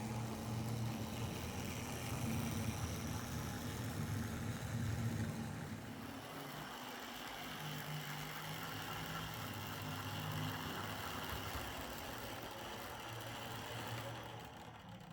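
Hornby R.758 Class 35 Hymek OO gauge model locomotive running along the track, a steady motor hum with wheel and rail noise; its pitch drops about six seconds in and it dies away near the end. It is running again after being fitted with new motor brushes and a brush clip, cleaned and lubricated.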